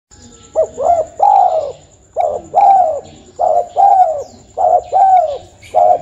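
A bird calling over and over: each phrase is a short note followed by a longer, arching note, repeated about every second and a quarter.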